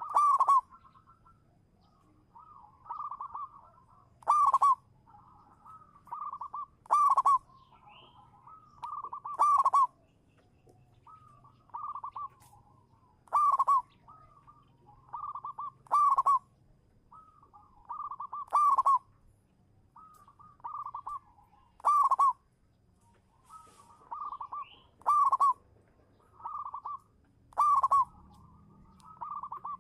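Zebra dove (perkutut) song: a phrase of softer rolling coos ending in one loud, sharp note, repeated about every two and a half to three seconds.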